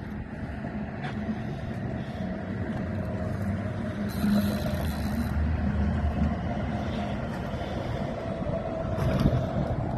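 A motor running steadily with a low hum, getting a little louder toward the middle, with a brief high hiss about four seconds in.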